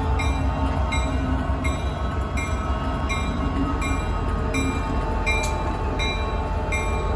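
Train running past with a steady, heavy low rumble, and a short ringing tone repeating about every 0.7 s.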